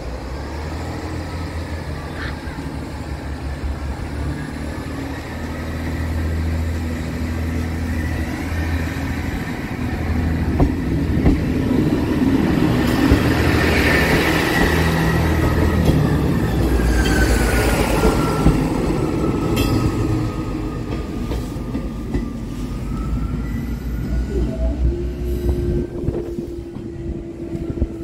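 A diesel train running past on the rails, its engine hum and wheel noise building to a peak around the middle and then fading. High whistling wheel squeal glides over it as it passes. A steady tone starts near the end.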